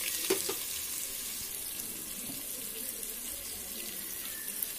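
Chopped tomato and whole spices sizzling steadily in hot oil as they fry down to soften. Two light clicks come in the first half second.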